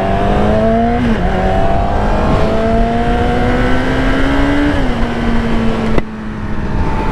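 Yamaha R6 inline-four engine pulling up through the gears, its pitch climbing and dropping sharply at two upshifts, about a second in and near five seconds, then holding a steady cruise. A sharp click comes about six seconds in, over a steady low wind rush.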